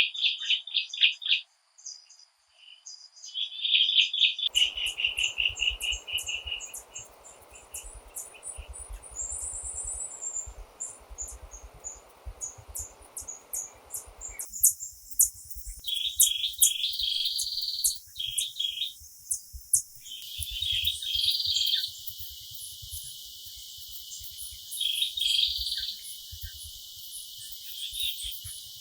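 Forest ambience of bird calls and insect chirping, changing abruptly about 4 and 14 seconds in, with a low, irregular thudding underneath from about 4 seconds in.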